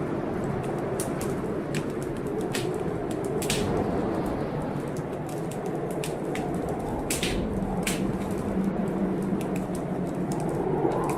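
Wood fire in a fireplace crackling, with irregular sharp snaps and pops, over the steady rush of heavy blizzard wind.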